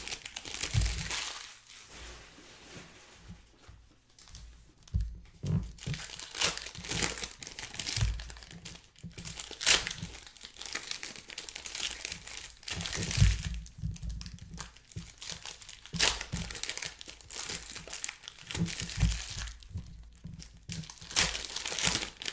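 Trading card pack wrappers crinkling and tearing as packs are ripped open and handled, in a run of irregular sharp crackles with a few dull knocks.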